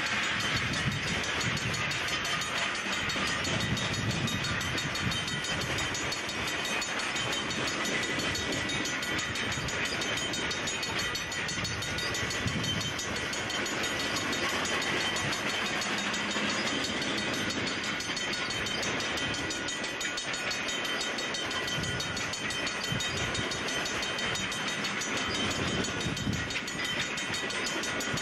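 Freight train's tank cars and covered hoppers rolling steadily past, with the rumble and clatter of steel wheels on the rails.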